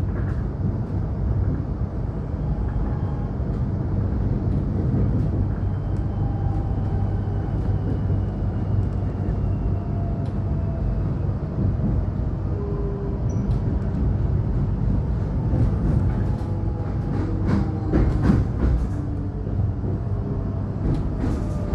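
Electric suburban train running, heard from inside the carriage: a steady low rumble with faint whines slowly falling in pitch as the train slows. A few sharp clacks of wheels over rail joints or points come about three-quarters of the way through and again near the end.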